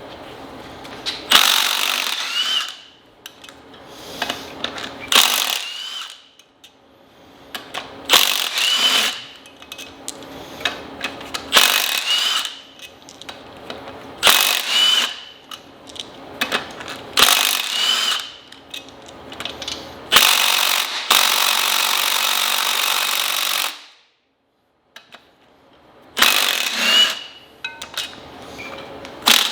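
Impact wrench run in repeated short bursts of hammering, each starting with a brief rising whine, with one longer burst of several seconds about two-thirds of the way through.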